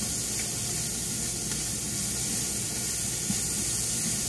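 Diced peppers and onions frying in a stainless steel skillet, a steady sizzle, with a few light scrapes of a spatula stirring them.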